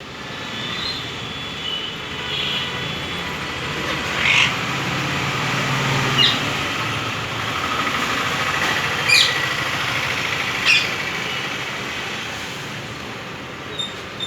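Ringneck parakeet giving four short, shrill squawks a couple of seconds apart, over a steady background rumble.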